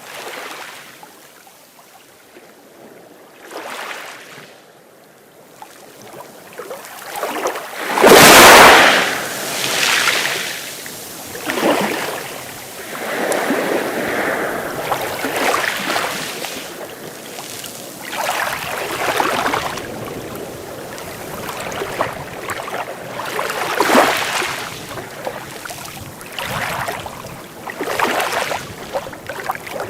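Sea waves breaking and washing up on the shore. Quieter at first, then one big wave crashes, the loudest moment, about a quarter of the way in, followed by a string of smaller breaks every couple of seconds.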